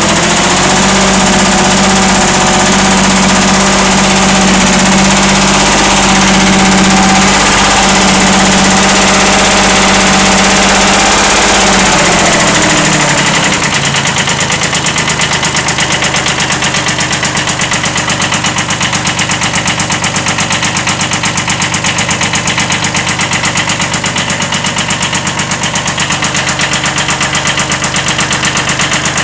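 1979 Kubota B7100 compact tractor's small diesel engine running with a slight rod knock. About halfway through it is throttled down from a fast run to idle, and at idle an even, rapid knocking rides on the engine note.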